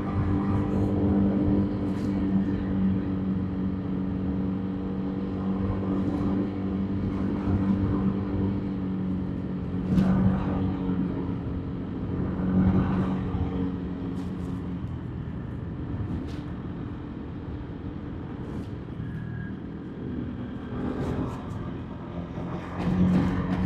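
Motorbike engine running steadily at cruising speed, over road and wind noise. The level swells briefly a few times, about ten seconds in, again a couple of seconds later, and near the end.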